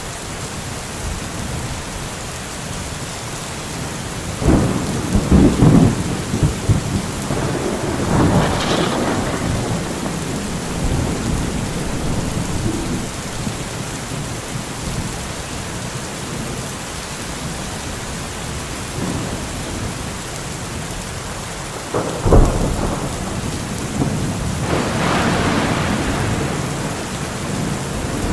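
Steady rain with thunder: a close clap and rumble about four seconds in, another rumble a few seconds later, and a sharp crack followed by a long rolling rumble near the end.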